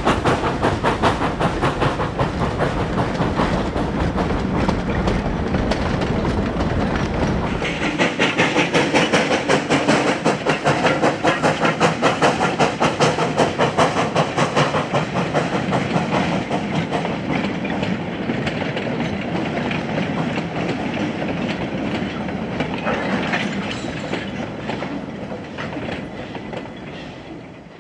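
Narrow-gauge steam freight train running past with a steady rhythmic clatter of wheels over the rail joints. It fades away near the end.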